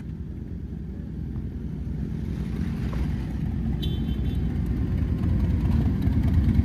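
Low engine rumble of a road vehicle, growing steadily louder as it nears or speeds up, with a brief high chirp about four seconds in.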